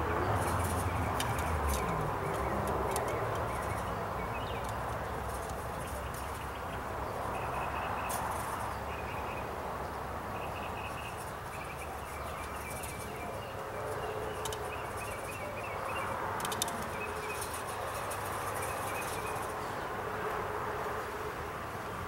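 Outdoor ambience of birds chirping repeatedly over a steady background hiss, with a few brief light clicks.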